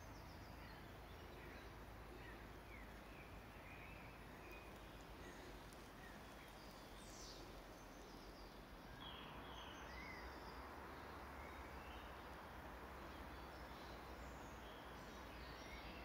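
Faint outdoor ambience: scattered short bird chirps over a steady low hiss, which gets slightly louder about nine seconds in.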